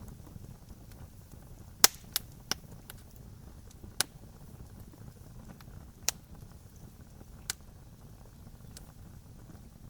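Campfire crackling: sharp pops and snaps scattered over a steady low rumble, the loudest pop about two seconds in with a quick cluster just after it.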